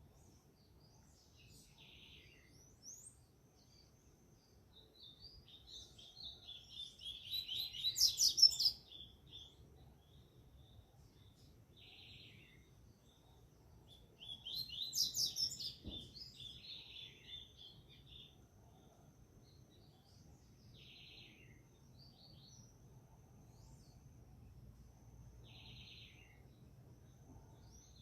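Double-collared seedeater (coleiro) singing: two bursts of fast, high twittering song a few seconds apart, with short buzzy notes between them.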